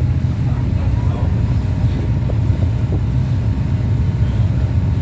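Passenger boat's engine running at a steady cruise: a constant low drone.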